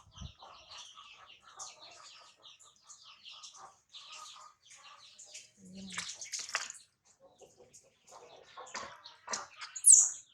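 Water sloshing and splashing in a small bath, with many short high-pitched chirps and squeaks throughout; the loudest is a sharp, rising squeak near the end.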